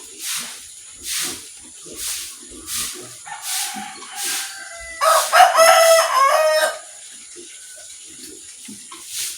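A rooster crows once, starting about three seconds in and loudest from about five to seven seconds. Behind it a short hissing sound repeats a little more than once a second.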